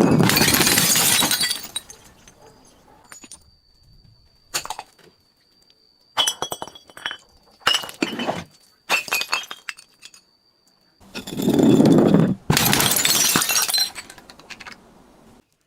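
Glass bottles breaking: a long shattering crash, then a run of smaller cracks and clinks of glass over a thin steady high tone, then a second long crash about eleven seconds in.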